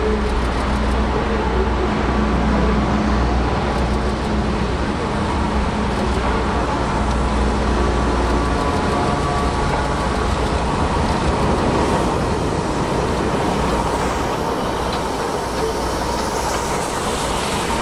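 Steam-hauled passenger train, the Class 8620 locomotive 58654 and its coaches, rolling along a station platform. Steady running noise of wheels and coaches, with a deep rumble that eases about halfway through.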